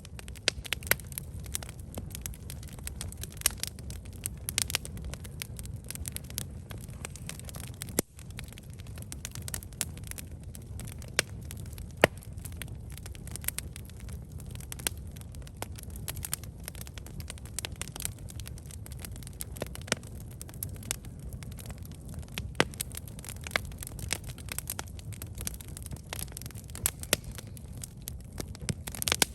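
Wood campfire burning: a steady low rumble of flames with frequent sharp crackles and pops, scattered irregularly.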